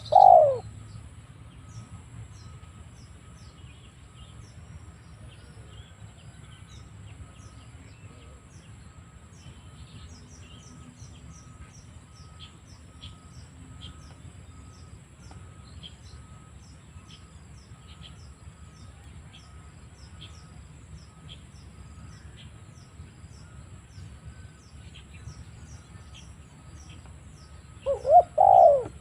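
Spotted dove cooing: one loud coo at the very start, then a short run of coos about a second before the end. In between, faint high chirps and a thin steady high tone run over a low rumble.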